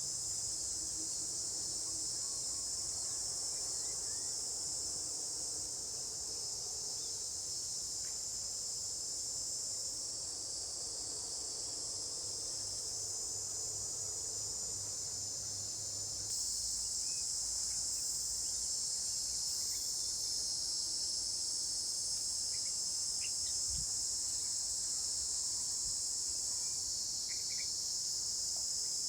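Steady, high-pitched chorus of insects such as crickets or cicadas, with no break. It grows a little louder about halfway through.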